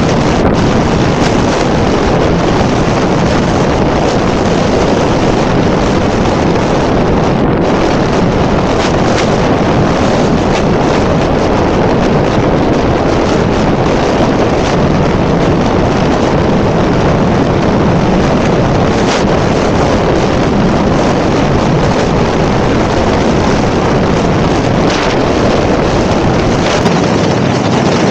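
Loud, steady wind rush buffeting the camera microphone on an electric motorbike riding at high speed in gusty crosswinds.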